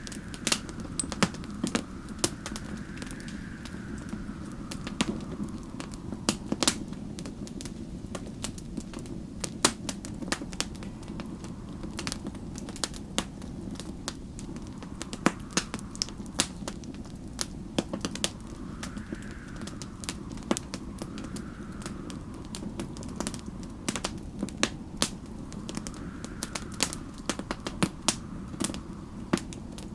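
Wood fire crackling and popping in a fireplace, with irregular sharp pops over a steady low rumble. Faint wind whistles through it, rising and falling in slow gusts.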